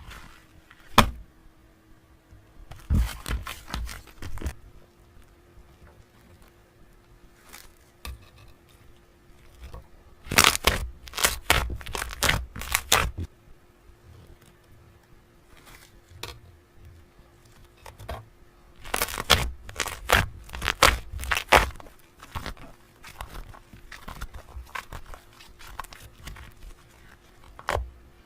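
Close-up tearing and crinkling, in clusters of rapid bursts a few seconds long with quieter gaps of scattered clicks, over a faint steady hum.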